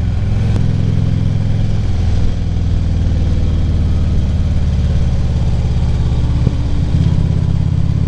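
Harley-Davidson touring motorcycle's V-twin engine running steadily under way, its note changing about seven seconds in.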